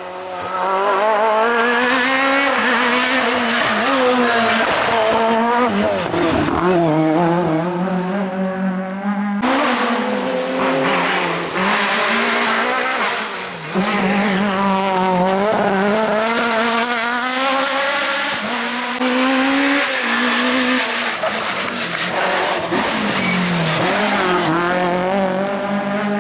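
Rally car engines at full throttle, revs rising and falling repeatedly through gear changes and corners, with tyre squeal. The sound cuts abruptly to another run about a third of the way in.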